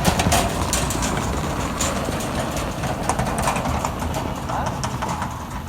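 Cleaning truck at work: its engine runs with a steady low rumble while scattered knocks and clatter sound throughout.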